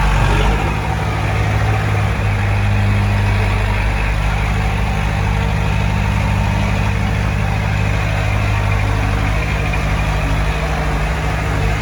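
Heavy diesel machinery running steadily at a constant engine speed, a low, even engine hum with no revving or breaks.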